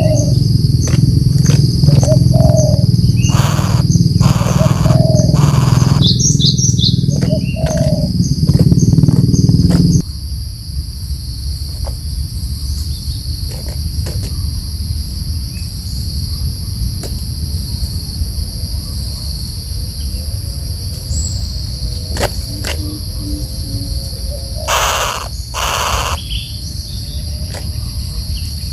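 Outdoor ambience with a steady high insect drone, a few short bird calls and scattered knocks. A loud low rumble fills the first ten seconds and cuts off abruptly. Two brief rustling bursts come near the end.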